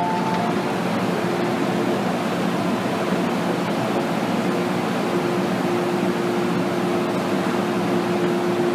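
Steady cabin noise inside an MTR Tsuen Wan Line M-Train car: an even rush of train and air-conditioning noise with a constant low hum.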